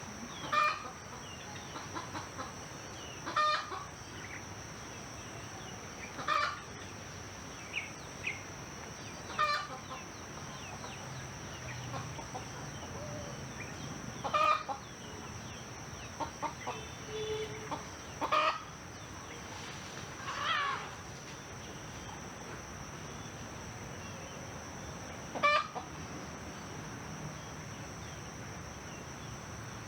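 Domestic chickens clucking, short calls coming every few seconds, over a steady high-pitched hum.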